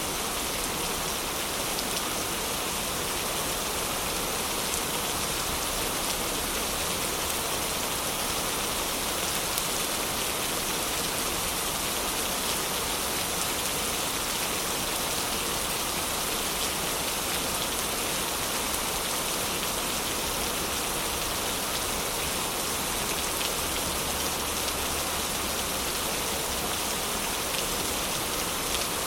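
Heavy rain falling steadily in a dense, even hiss of countless drops, with no change in strength.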